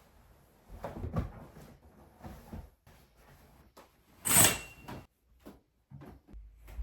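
A series of knocks and clunks of things being handled, like cupboard doors or drawers, with one sharp, bright clatter about four seconds in.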